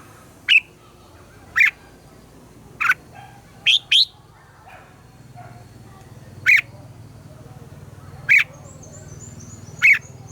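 Red-whiskered bulbul giving short, sharp calls, one every second or two, with a quick double note about four seconds in. A faint high trill from another bird comes near the end.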